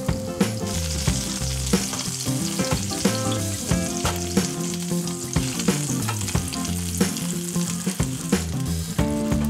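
Meat-stuffed portobello mushrooms sizzling steadily in oil in a frying pan, with light background music underneath.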